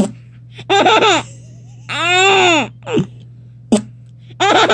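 Baby laughing in short voiced bursts, with a drawn-out squealing vocal noise that rises and falls in pitch about two seconds in.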